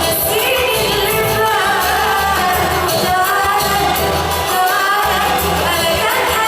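Pop song with a singing voice over a pulsing bass beat, played as dance music.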